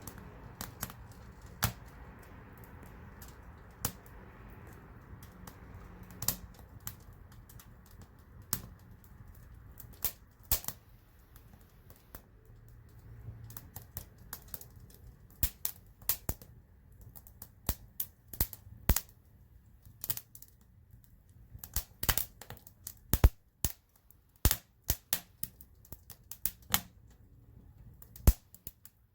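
Campfire wood crackling and popping: irregular sharp snaps, sparse at first and coming thick and fast in the second half, over a low rushing noise that dies away about halfway through.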